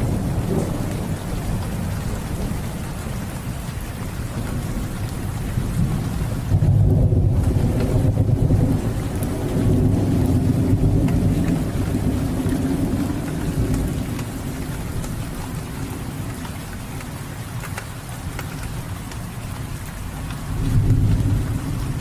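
Steady rain with low rolling thunder, the rumble swelling about six seconds in, again around ten seconds, and once more near the end.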